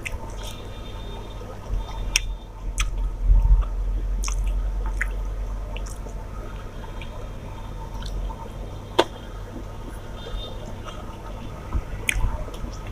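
Wet, squishy eating sounds of chewing a meal of rice and fish curry, with scattered sharp little clicks and smacks.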